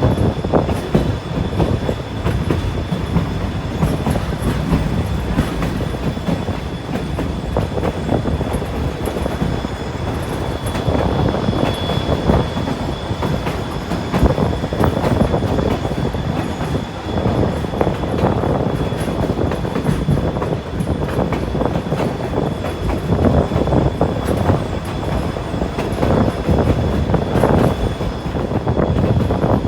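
Passenger train of the White Pass & Yukon Route rolling along the track, heard from aboard: a steady rumble with the wheels clacking over the rail joints and a faint, steady high whine.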